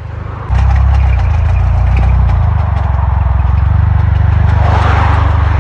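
Audi TT Mk1's 1.8-litre turbocharged four-cylinder engine running with a rapid knocking clatter, which gets suddenly louder about half a second in. The knock is the sign of an oil-starved engine failing at the bottom end, later found to have thrown a connecting rod.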